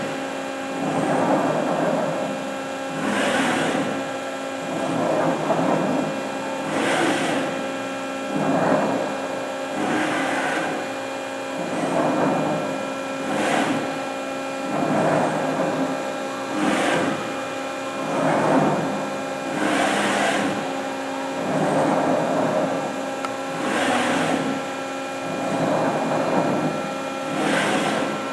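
Cincinnati Autoform CNC press brake's back gauge running through programmed moves: its axis drives whir up and down in a repeating cycle about every two seconds. Under them is the steady hum of the running hydraulic press brake.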